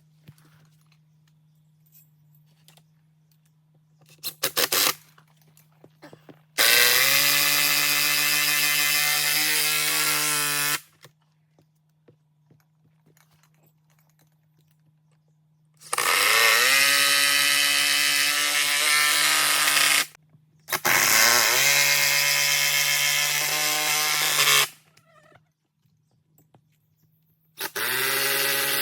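Electric power saw cutting lumber in four runs of about four seconds each, plus a brief burst about four and a half seconds in. Each time the motor's pitch rises as it spins up, then holds steady through the cut.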